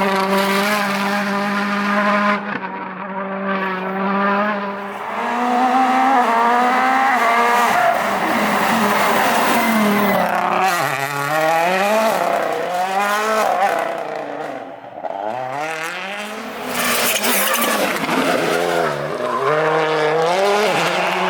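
Turbocharged four-cylinder WRC rally car engines at full throttle. The engine note holds steady and high at first, then repeatedly drops and climbs as the cars brake, change gear and accelerate.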